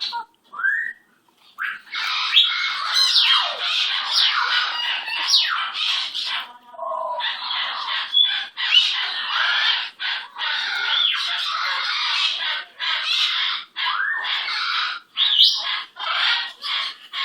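Pet bird giving a long run of harsh squawks and chatter, nearly continuous with brief gaps; the calls become shorter and choppier in the second half.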